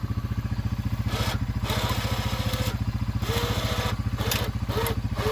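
Honda Fourtrax 300 ATV's single-cylinder engine idling steadily, with several short scraping noises over it.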